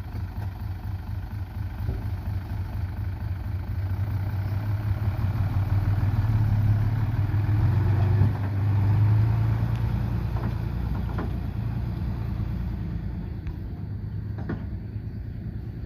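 Heavy diesel engine of earthmoving machinery running steadily. It grows louder through the middle and then eases off again.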